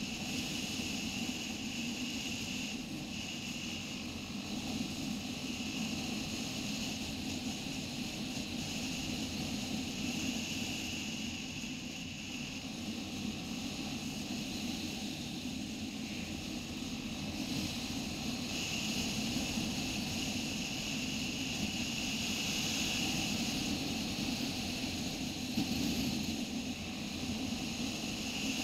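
Motorcycle running at a steady cruise: a constant engine drone mixed with an even rush of wind and road noise.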